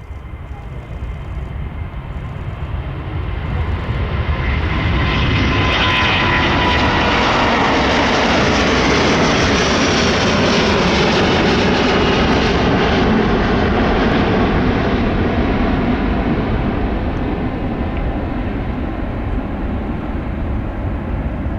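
Airbus A330-900's Rolls-Royce Trent 7000 jet engines at takeoff power as the airliner departs. The noise builds over the first few seconds, peaks with a falling whine, then slowly eases off.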